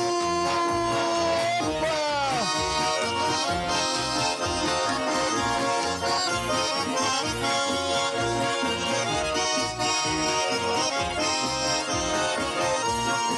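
Russian garmon (button accordion) playing an instrumental passage between sung verses of a folk song, with a steady rhythmic bass-and-chord accompaniment. A sung note is held for about the first two seconds and then slides down and ends.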